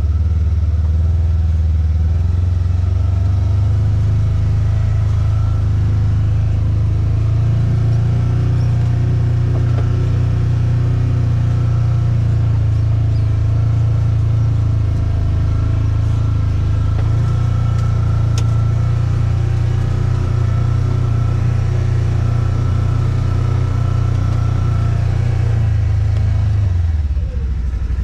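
Motor vehicle engine and road noise, a steady low drone that shifts pitch slightly a few times. It drops away about a second before the end.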